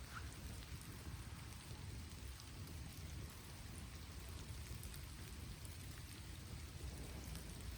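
Steady rain falling: an even hiss with scattered faint drop ticks over a low rumble.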